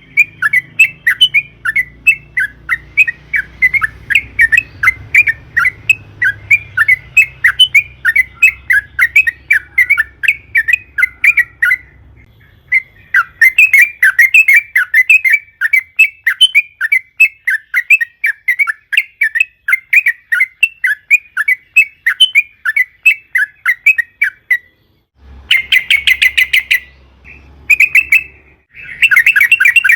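Yellow-vented bulbul singing a long, rapid run of chattering notes, several a second. There is a brief pause about twelve seconds in, and the run stops a little before the end. It is followed by a few short, dense bursts of song.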